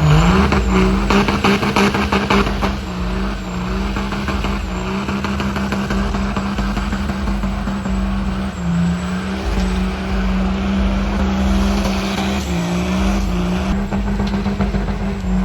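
Truck engine held at steady high revs during a burnout, a continuous loud drone that sags briefly a few times as the throttle is eased and reapplied.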